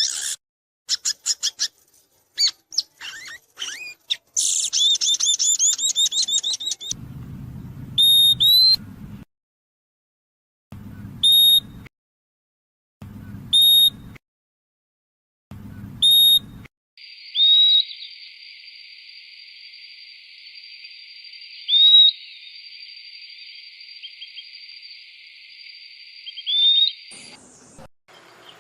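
Purple-throated euphonia (fim-fim) calls and song: rapid chirps and a fast trill at first, then four short clear whistled calls about two seconds apart, then a few fainter upward-slurred notes.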